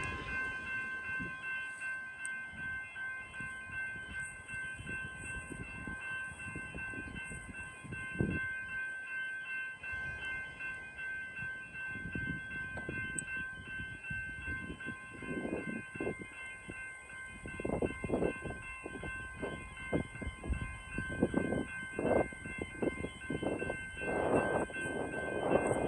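Level crossing's General Signals electronic bell sounding continuously as a steady multi-tone ring. In the second half a train comes up to the crossing, its wheels rumbling and clattering on the rails, louder toward the end.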